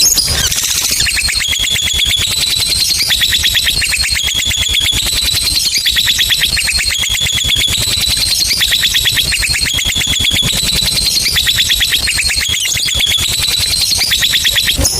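Lovebird's 'ngekek' song: one long, unbroken, high-pitched chattering trill of very rapid repeated notes, rising and falling slightly in pitch in short phrases.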